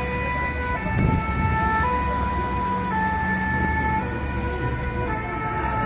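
Emergency vehicle two-tone sirens, the French 'pin-pon' type, alternating between two pitches about once a second over the low rumble of traffic.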